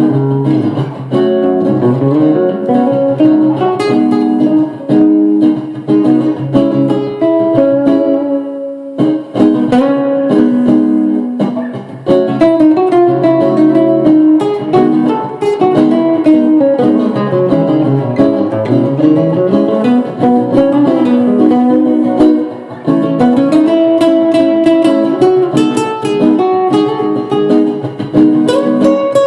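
Solo guitar improvising with plucked notes and melodic runs. It thins out briefly about a third of the way in, and there is a run that falls and climbs back up in the middle.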